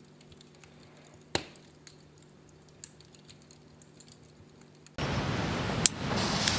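Faint clicks for the first five seconds, one sharper about a second and a half in. Then about five seconds in a Groundmouse whistling ground-spinner firework goes off with a sudden, loud, steady rush of hissing sparks and one sharp crack about a second later.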